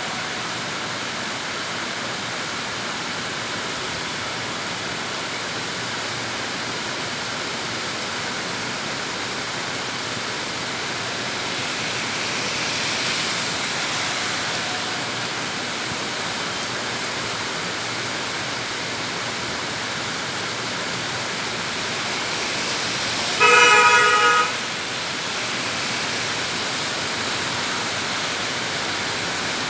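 Heavy rain falling steadily on a city street. Traffic noise swells briefly about halfway through, and a vehicle horn honks once for about a second near the end, the loudest sound.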